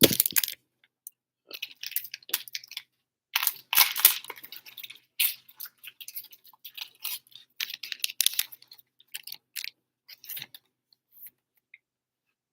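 Irregular light clicks, taps and rustles of small objects being handled close by, in scattered bursts with short pauses between.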